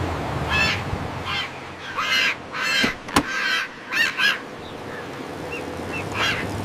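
A series of squawking bird calls, about seven in all, spaced irregularly, with a single sharp click about three seconds in.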